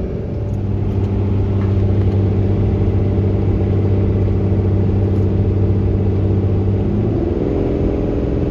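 2016 Dodge 5500 truck's engine running steadily at highway speed while towing a fully loaded car-hauler trailer. Its tone shifts slightly about seven seconds in.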